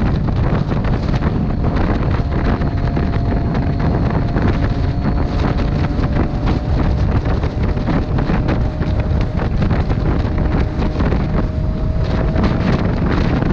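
Heavy wind buffeting on the microphone of a camera riding along on a moving motorcycle, with a faint steady engine hum underneath that drifts slowly in pitch.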